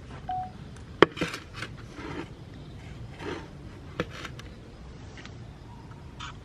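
Handling noises: a sharp knock about a second in and another about four seconds in, with short rustling scrapes between them.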